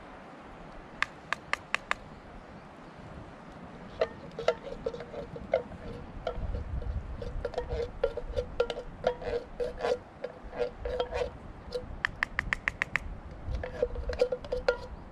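Quick runs of metallic clicks and taps with a short ringing tone: a tin can of coconut milk being tapped and scraped against a metal cooking pot while the milk goes in. The clicking comes in bursts, including a very even rapid run about twelve seconds in.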